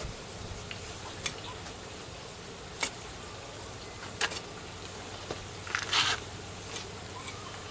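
Garden hoe working soil in a raised bed: a few separate sharp strikes at irregular intervals, with a short scraping burst about six seconds in.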